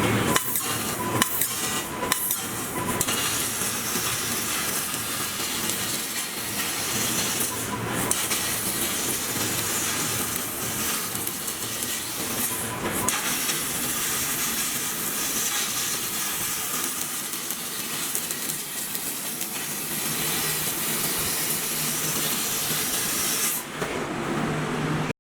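12 kW fiber laser cutting machine cutting 20 mm carbon steel: a steady hiss from the cutting head's gas jet and the burning cut, with a few brief dips.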